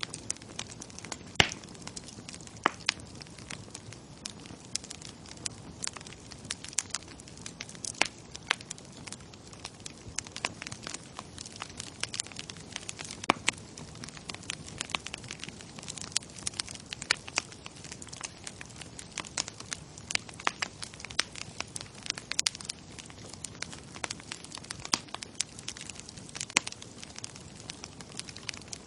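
Bonfire crackling: wood burning with a steady low rush of flame and frequent sharp, irregular pops and snaps, a few louder than the rest.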